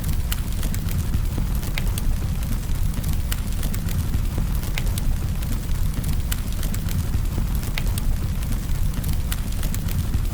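Campfire burning: a steady low rumble of flames with frequent sharp crackles and pops scattered throughout.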